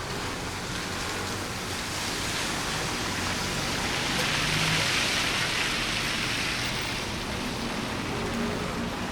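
Steady hiss of rain on a city street, swelling louder for a few seconds around the middle, with a low engine hum beneath.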